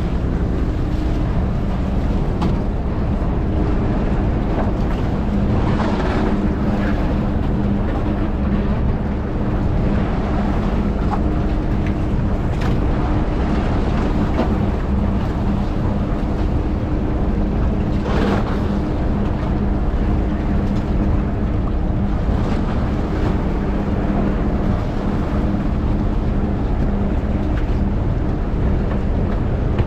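Fishing boat's engine running steadily at sea, a constant low hum under a haze of wind and water noise, with a few brief louder rushes of noise over it.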